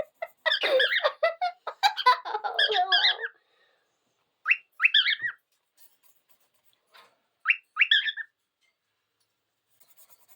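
A cockatiel chattering rapidly for about three seconds, then giving two short whistled calls a few seconds apart, each one sweeping quickly upward and then wavering.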